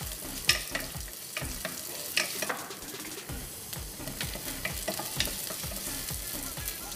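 Sliced onion and garlic sizzling in oil in a small nonstick pan, stirred with a wooden spoon that knocks and scrapes against the pan many times at an irregular pace.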